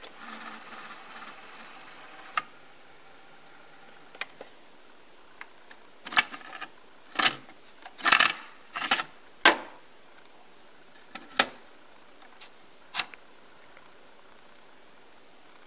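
Sony TC-FX210 cassette deck: a faint tape-winding whir for the first couple of seconds, then a scattered series of sharp mechanical clicks and knocks as the transport keys and eject are worked and the plastic cassette is taken out and handled.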